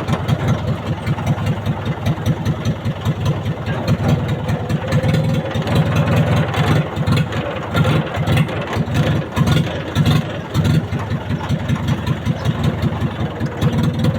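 Mahindra tractor's diesel engine running steadily with a rapid, even chugging.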